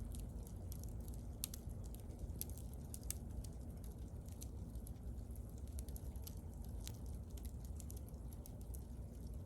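Wood bonfire burning: irregular sharp crackles and pops over a steady low rumble of the flames.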